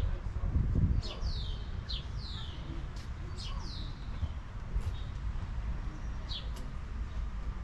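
Small birds chirping: short, high chirps that sweep downward, repeated every half second or so. Under them runs a steady low rumble, louder for a moment about a second in.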